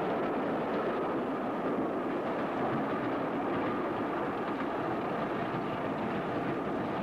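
Train passing close by: a steady rush of running noise from the wheels on the rails, holding an even level throughout.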